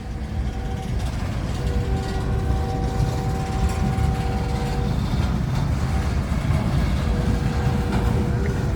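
Freight train rolling past with a steady low rumble. Faint steady tones ride over it, fading out about halfway and coming back near the end.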